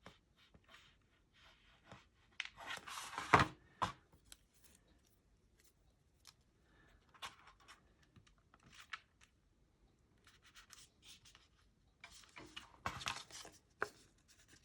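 Paper and cardstock being handled and pressed together while gluing card pieces: quiet rustles and small clicks, with two louder scraping rustles, about three seconds in and again around twelve to fourteen seconds in.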